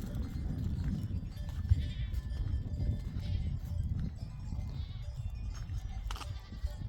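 Sheep bleating a few times over a steady low rumble.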